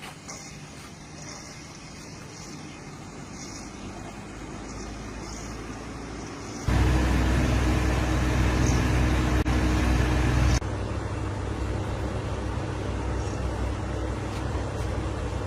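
A motor running with a steady hum. It gets abruptly much louder about seven seconds in and drops back about three and a half seconds later.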